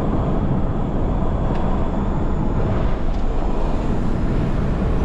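Steady road and engine noise inside the cabin of a moving Jeep Renegade diesel SUV.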